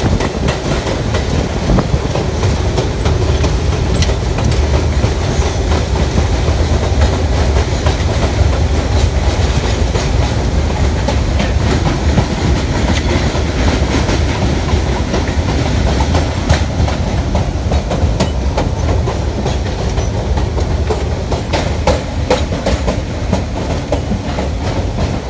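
Train running along the track, heard from inside the car: a steady low rumble with the wheels clicking and clacking over rail joints, the clicks coming thicker in the second half.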